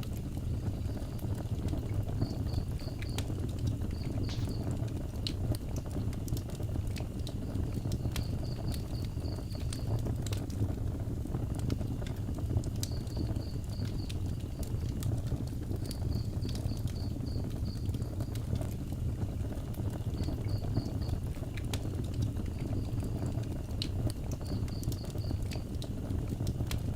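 Wood fire burning, with scattered crackles and pops over a steady low rumble. An insect chirps in short trains of rapid pulses every few seconds.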